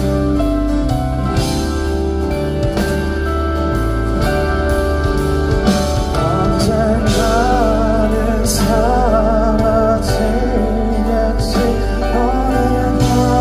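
Live band music played loud through a festival sound system, with steady bass and drum hits. A wavering melody line comes in about six seconds in.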